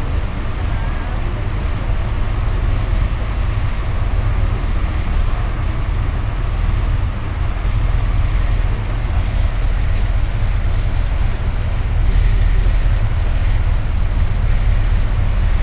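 Staten Island ferry underway: a steady low rumble mixed with the rushing of its churning wake.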